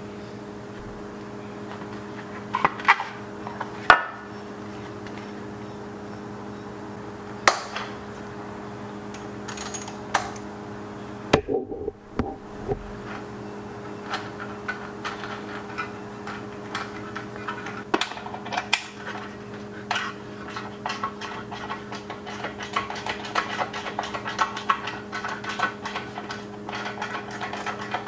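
Metal hand tools clinking and clanking against the motorcycle's exhaust hardware, with a few sharp knocks early on and then a long run of rapid clicking like a ratchet wrench working the bolts. A steady low hum sits underneath.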